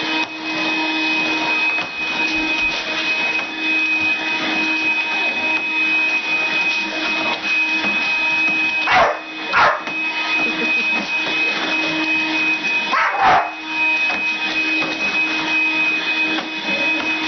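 Vacuum cleaner running steadily with a high whine, while a dog barks three short times at it: twice in quick succession about nine seconds in, then once more about four seconds later.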